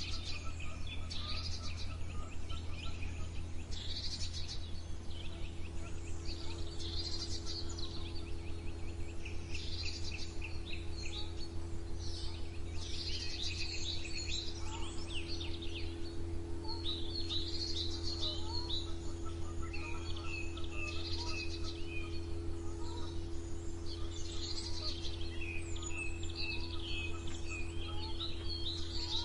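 Songbirds singing in short, high, repeated phrases every couple of seconds, over a steady low hum.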